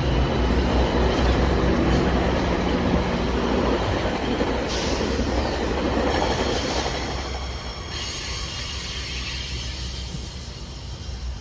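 A GO Transit train on an equipment move passing through a station: the diesel locomotive's low engine drone and the wheels running over the rails, with high thin wheel squeal partway through, the sound dying away over the last few seconds as it goes by.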